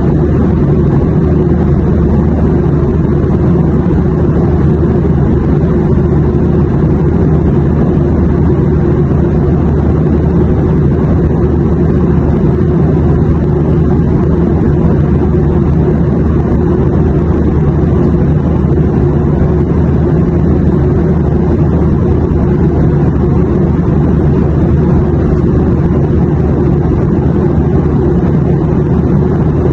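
Airplane cabin noise: a steady, unchanging low rumble that stays the same throughout.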